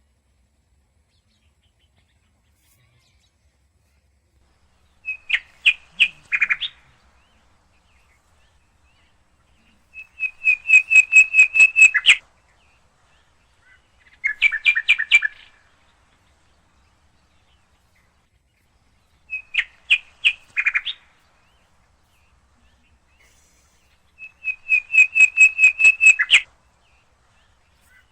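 Rose-ringed parakeet calling in five bursts of rapid, sharp, repeated notes. Each burst lasts one to two seconds, with a few seconds of quiet between them.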